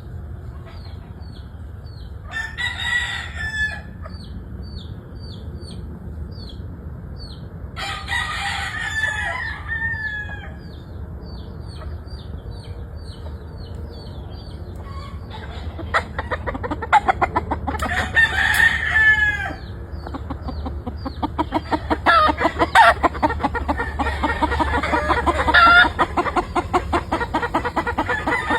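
Gamefowl roosters crowing several times, about three seconds in, around nine seconds, near eighteen seconds and again late on, some crows overlapping. From about halfway there is a fast run of clucking, and a short high chirp repeats about twice a second through the first half.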